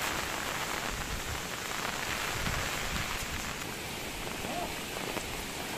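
Heavy monsoon rain falling steadily, a constant even hiss.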